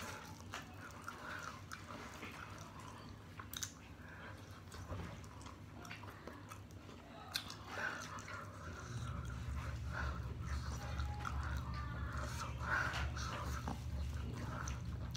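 Close-up chewing and biting of sauce-covered fried chicken wings, wet mouth sounds with scattered small clicks as the meat is pulled from the bone. A low steady hum comes in about nine seconds in.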